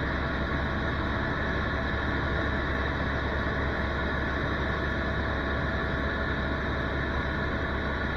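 Helicopter in flight: a steady drone with several constant high tones over a deep low rumble.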